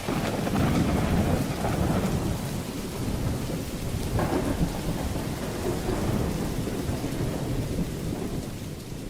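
Steady heavy rain with thunder rumbling low underneath, strongest in the first couple of seconds. A sharper thunder peal breaks in about four seconds in, and the storm begins to fade near the end.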